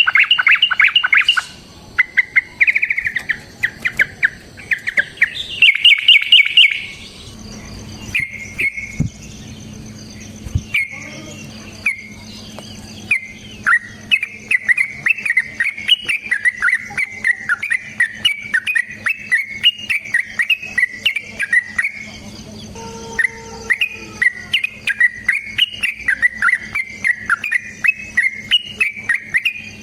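Yellow-vented bulbul singing in fast, chattering runs of chirps. Loud bursts come in the first several seconds, then a long unbroken run of quick chirps from about halfway on. A faint, fast high-pitched insect-like ticking and a low hum sit underneath.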